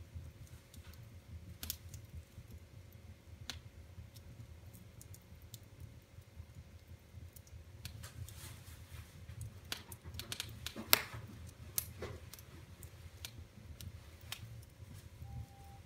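Wood fire in a fireplace crackling, with scattered sharp pops and snaps, the loudest about eleven seconds in, over a low steady rumble.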